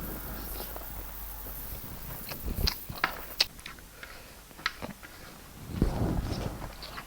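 A person chewing and eating close to the microphone: scattered wet mouth clicks and smacks, with a couple of heavier low bumps about two and a half and six seconds in.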